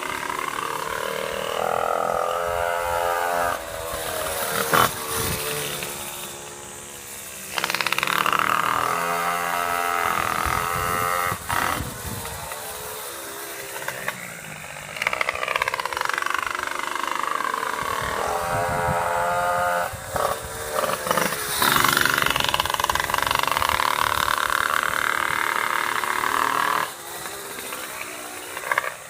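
Racing pocket bike's small two-stroke engine being run in, its revs rising and falling as it goes through the corners and passes by on each lap.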